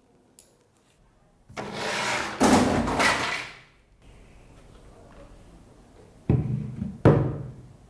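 A rough handling or scraping noise lasting about two seconds, then two sharp knocks about a second apart near the end.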